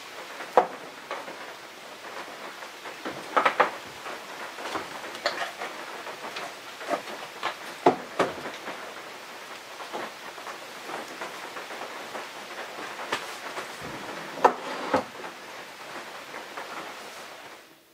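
Steady rain falling, with irregular louder drops striking hard surfaces close by. It fades out near the end.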